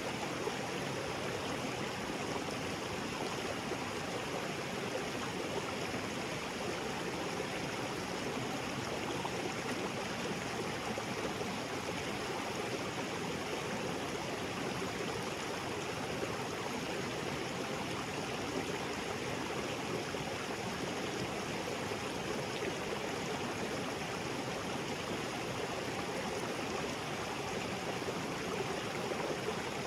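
Small waterfall and creek water splashing and flowing over rocks: a steady, even rush of falling water.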